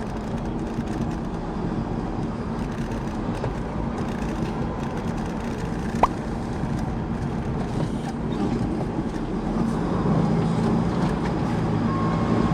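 Steady engine and road rumble of a semi-truck on the move, heard from the cab, with one short sharp pop about halfway through.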